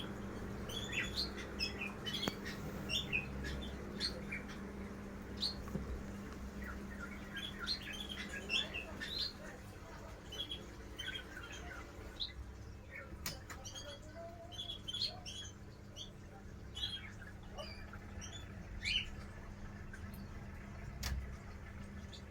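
Small birds chirping, with many short high calls scattered throughout over a steady low hum.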